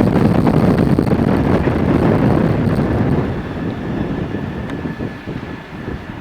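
A train passing through a station: a dense rumbling rush that eases off after about three seconds, with a faint steady high whine over it.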